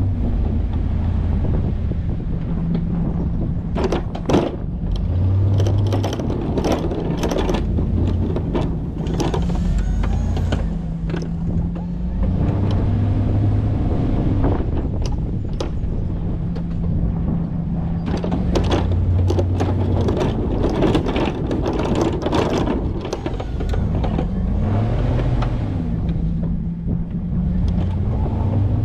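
Ford pickup truck's engine running while plowing snow, its pitch rising and falling several times as it works, with repeated knocks and rattles throughout.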